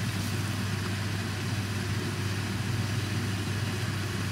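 Pork belly, beetroot and vegetables sizzling in a steel stockpot, an even hiss over a steady low hum.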